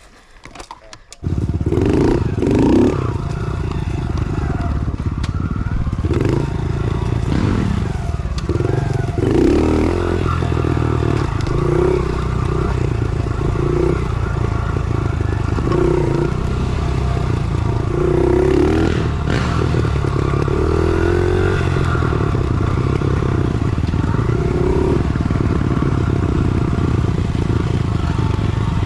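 110cc pit bike's single-cylinder four-stroke engine, loud from about a second in and running on while the bike is ridden, its revs rising and falling every couple of seconds.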